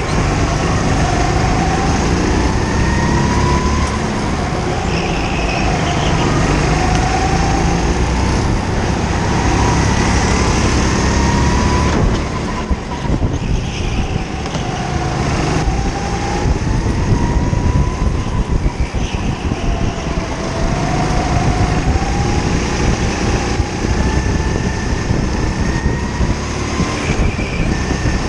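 Go-kart engine heard onboard, revving up in repeated rising sweeps as it accelerates and dropping back as the driver lifts, with a brief quieter stretch about halfway through.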